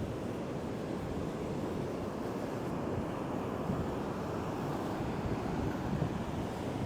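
Ocean surf breaking and strong wind buffeting the microphone, a steady rush of noise strongest in the low end.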